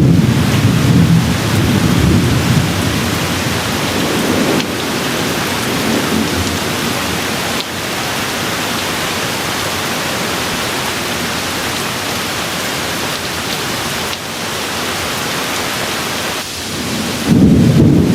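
Steady rainfall with rolling thunder: a low rumble at the start fades away over a couple of seconds, rain continues, and a new roll of thunder begins near the end.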